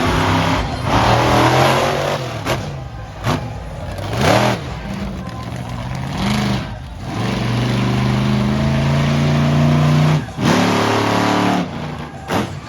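Monster truck engines revving hard, the pitch climbing and falling in quick blips, then held at a steady high rev for a couple of seconds before dropping off sharply about ten seconds in.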